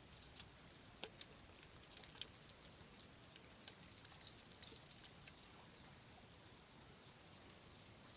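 Near silence with faint, scattered ticks and light pattering, thickest in the middle.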